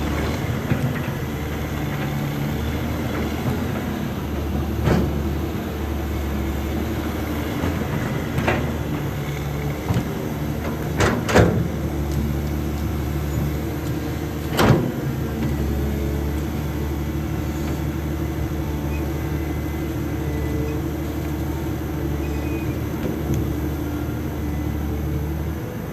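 Caterpillar 320D excavator's ACERT diesel engine running at a steady speed, with a few sharp clicks or knocks over it, the loudest a close pair about halfway through.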